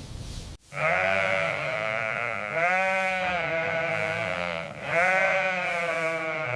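Sheep bleating: about three long, wavering bleats one after another. Before them, a low rush of wind cuts off abruptly about half a second in.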